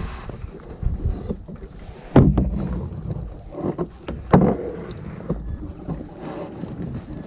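Strong wind rumbling on the microphone while an inflatable kayak is paddled, with sharp splashes and knocks of the paddle about every two seconds.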